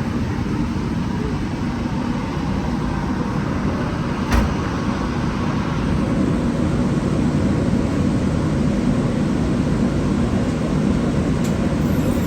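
Canal Street streetcar running along its rails, a steady low rumble heard from inside the car, with a single sharp clunk about four seconds in.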